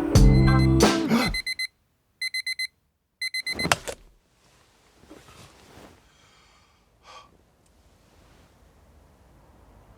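Music cuts off and a digital alarm clock beeps in three quick bursts of rapid high beeps about a second apart, then stops.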